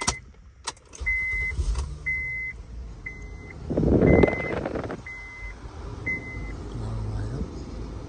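Car warning chime beeping six times, about once a second, over the low steady running of a 2011 Honda Pilot's 3.5 L V6 just after its starter was replaced. A louder rush comes about four seconds in.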